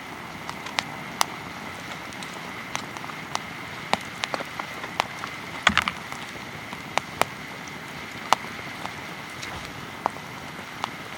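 Wood fire crackling, with sharp, irregular pops over a steady hiss.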